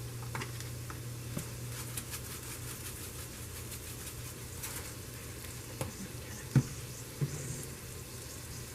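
Sliced onion and sweet peppers sizzling steadily in olive oil in a frying pan, with a few sharp knocks of a utensil against the pan, the loudest about two-thirds of the way through.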